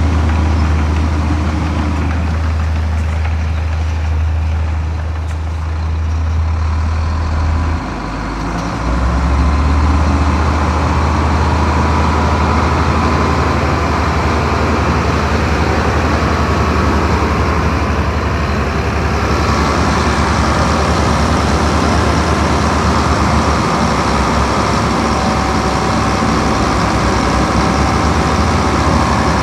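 Heavy diesel machinery running loudly and steadily with a deep engine hum. The engine note drops briefly about eight seconds in, then picks back up, and from about two-thirds of the way through a higher hissing, clattering noise joins it.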